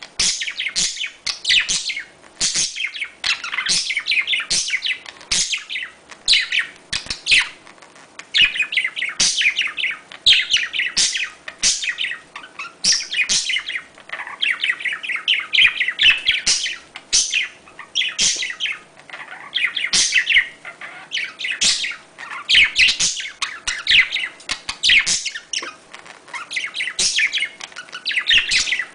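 Budgerigars chattering and warbling without a break: fast, busy chirps, clicks and squeaky trills, the kind of excited flock chatter of budgies in breeding condition.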